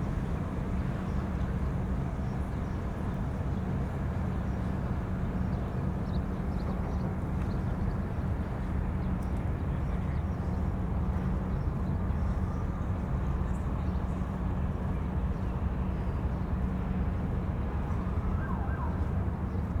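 Steady low city ambience: a constant rumble of distant traffic and wind with a steady low hum, and a faint siren wailing in the distance near the end.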